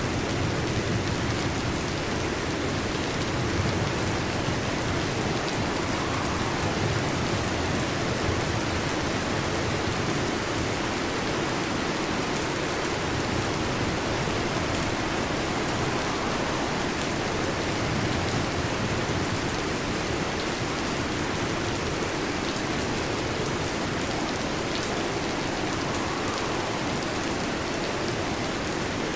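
Heavy rain falling steadily on a metal roof, an even dense patter with no breaks.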